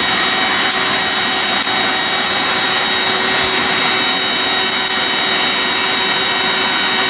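Makeshift barbecue forge running with a steady, even roar of rushing air and a few faint high whines, heating a spring-steel blade for hardening.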